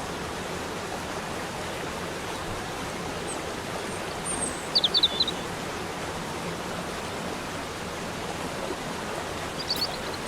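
Waterfall water rushing in a steady, even hiss, with a few short high bird chirps a little before halfway through and again near the end.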